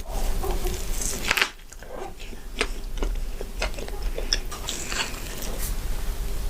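Close-miked ASMR eating sounds of fast food: bites and chewing with short crisp crunches and clicks, a louder crunch about a second and a half in.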